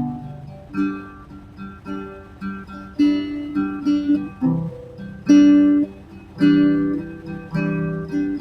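Acoustic guitar played with chords strummed and picked, each ringing out, in a slow, unhurried rhythm.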